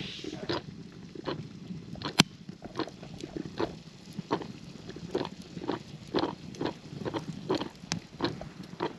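Coffee percolator perking on campfire coals: irregular short pops and gurgles, two or three a second, with one sharp crack about two seconds in.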